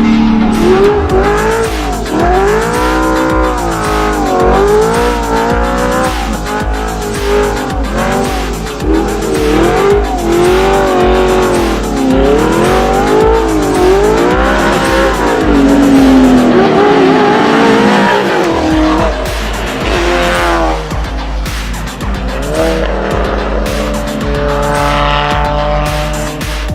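Car engine with an Armytrix valved aftermarket exhaust revving repeatedly, its pitch rising and falling again and again, over electronic music with a steady beat.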